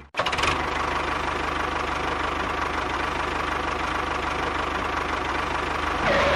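Mini tractor running steadily at idle, an engine-like sound with a fast, even knock and a faint steady whine, starting just after a sudden cut.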